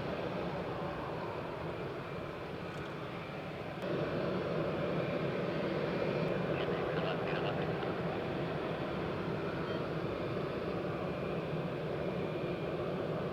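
Airbus A320's jet engines running steadily as the airliner taxis close by, getting louder about four seconds in.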